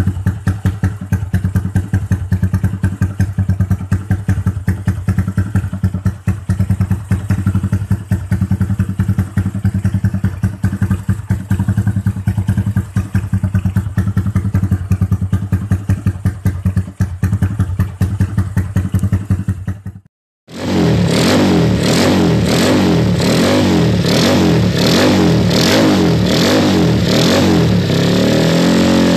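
Drag-bike engines running through JRM racing exhausts, with no words over them. The engine first runs with a fast, rattly pulse. After a brief cut about twenty seconds in, an engine is revved in quick repeated blips, rising and falling about once or twice a second.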